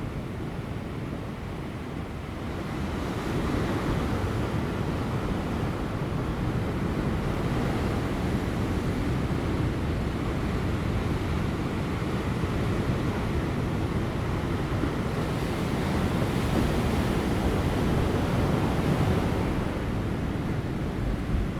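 Large ocean waves crashing on rocks: a continuous surf wash that swells about three seconds in and again around sixteen to nineteen seconds in.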